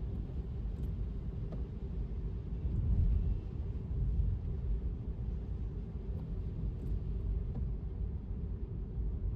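Steady low rumble of a car driving on wet city streets: road and tyre noise, with little higher-pitched sound and only a few faint ticks.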